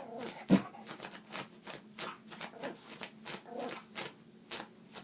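Yorkshire terrier huffing in a rapid, even rhythm of short rasping breaths, about three a second, like a car starter cranking over without catching, with one louder puff about half a second in.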